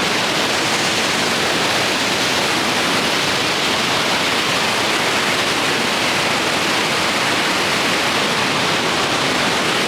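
Large waterfall heard from its foot, a loud, steady rush of falling water.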